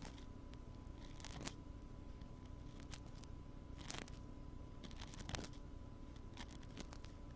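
Wooden ear pick scratching and scraping at a binaural microphone's ear in scattered short, crackly strokes, over a steady background hum with a faint thin tone.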